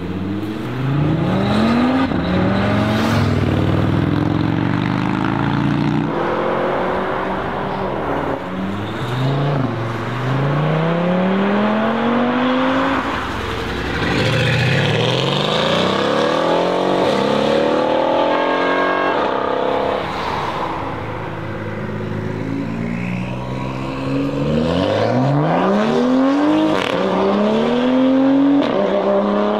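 Sports cars accelerating hard away, one after another, starting with an Audi RS3 sedan. Each engine revs up in rising sweeps, dropping back in pitch at every upshift before climbing again.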